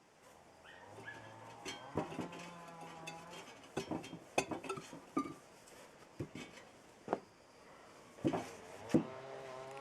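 Metal parts clinking and knocking as they are handled, a dozen or so separate sharp knocks, some leaving a short ring.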